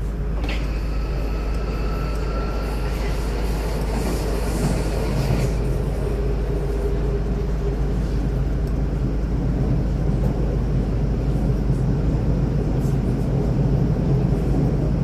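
Running noise inside a DBAG Class 423 electric S-Bahn train at speed: a steady rumble of wheels on the track. A high, thin whine sounds over it for about the first five seconds, then fades.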